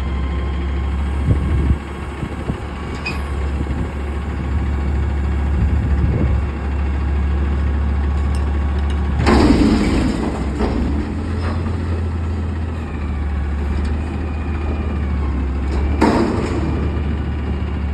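Front-load garbage truck engine running steadily, with two loud sudden bursts of noise about nine and sixteen seconds in.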